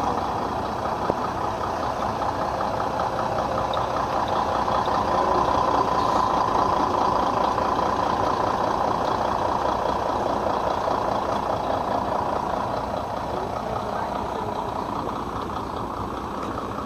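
Engine idling steadily, getting a little louder midway and then easing off.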